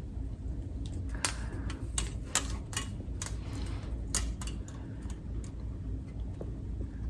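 Metal wind spinner being handled, its thin metal parts clicking and tapping together irregularly, over a low steady background hum.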